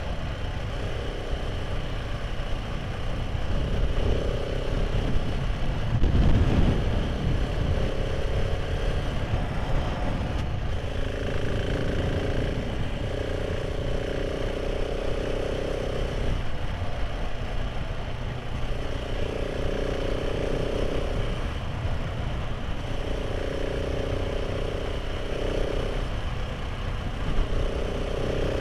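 Motorcycle engine running at a steady road speed, its note coming and going in stretches of a few seconds, under a constant rush of wind on the microphone that swells about six seconds in.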